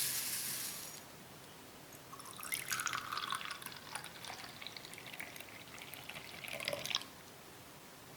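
Liquid being poured in a kitchen, trickling and splashing unevenly for about five seconds before it stops abruptly.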